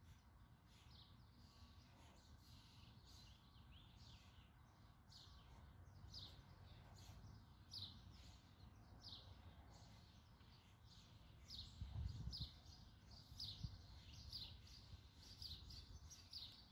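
Birds chirping faintly: a run of short, falling chirps that grows busier from about four seconds in, over a steady low background rumble.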